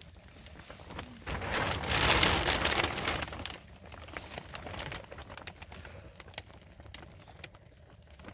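Rain pattering with many small drips, swelling into a louder rush for about two seconds shortly after the start before easing back.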